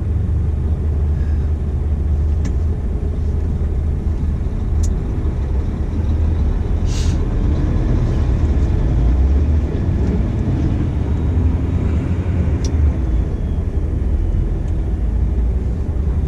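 Scania dump truck's diesel engine running steadily, a low rumble heard inside the cab, with a short hiss of air about seven seconds in and a few light clicks.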